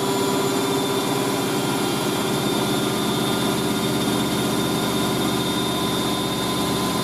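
Hoover A3060 Electronic 1100 washing machine spinning fast in its final spin of a towel load, a steady motor whine over the rush of the drum. The load is well balanced and the spin runs stable, with no rattle or knocking.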